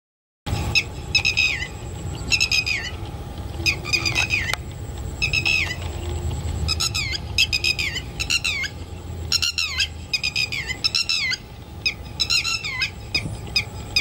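A bird calling again and again: short calls that fall in pitch, often in quick runs of two to four, over a low steady rumble.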